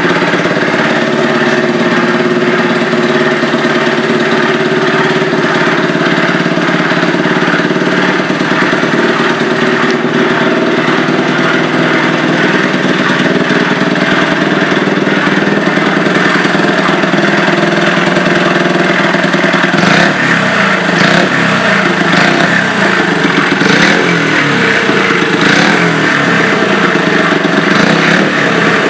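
Honda DAX trike's bored-up 88cc single-cylinder engine running at a steady idle, then revved up and down repeatedly in short blips for the last several seconds.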